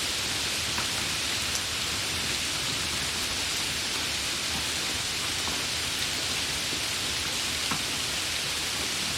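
Steady rain falling, an even hiss with a few individual drops ticking now and then.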